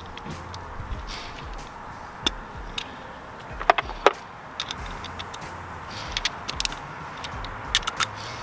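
Metal sockets and tools clicking and clinking as a socket set is searched through for an 8 mm socket, with two sharper clinks about four seconds in and a run of small clicks near the end.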